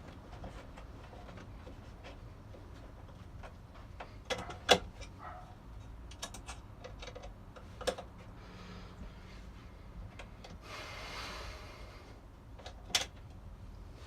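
Hand work on the ceiling fan's fittings: scattered clicks and knocks of a screwdriver and metal parts being handled, the sharpest a bit under five seconds in, with a short scraping rub near the end.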